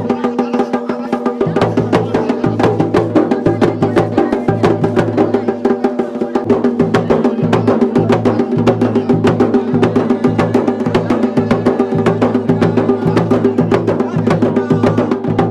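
Music: rapid, continuous drumming over a steady held droning tone.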